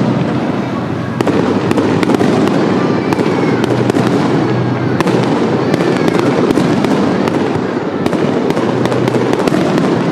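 Aerial fireworks display: a dense, continuous barrage of shells bursting, with many sharp cracks and pops over a steady rumble.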